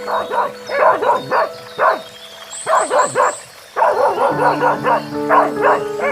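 A dog barking repeatedly in quick bursts, with a short break about three and a half seconds in, over background music with held notes.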